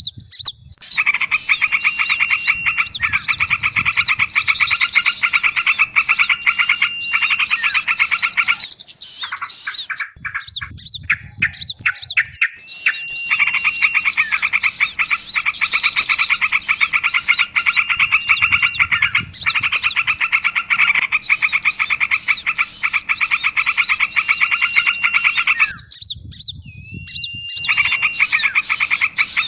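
Bird-lure call track of many small songbirds chattering and alarm-calling at once: a dense layer of quick high chirps over a fast rattling trill. The lower rattle drops out twice for a few seconds.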